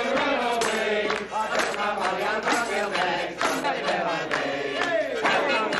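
A group of men singing a song together, with long held notes.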